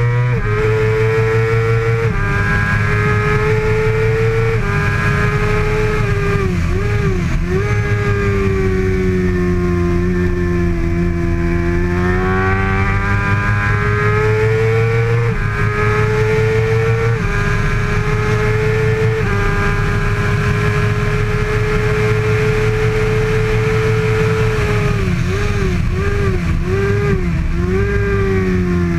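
2013 Kawasaki ZX-6R 636 inline-four racing engine at high revs. Its pitch climbs under throttle and drops in sudden steps at upshifts, several times. Twice it wavers up and down and then falls away as the rider slows.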